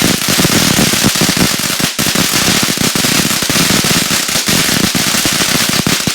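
Consumer firework going off in a rapid, dense stream of crackling pops and small bangs, which cuts off abruptly at the end.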